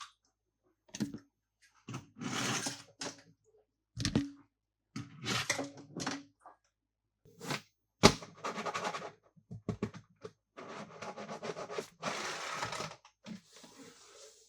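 Toy cars and their packaging being handled: a run of scrapes and rustles in short bursts, broken by sharp knocks, the loudest about eight seconds in.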